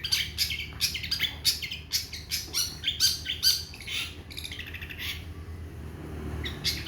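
Long-tailed shrike (cendet) singing: a rapid, varied run of short, harsh notes, several a second, turning to softer, quicker chatter about two-thirds of the way through. A steady low hum lies under it.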